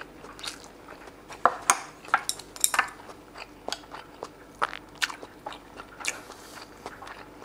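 Close-miked chewing of a mouthful of dry curry and rice, with irregular wet clicks and crunchy crackles from the mouth.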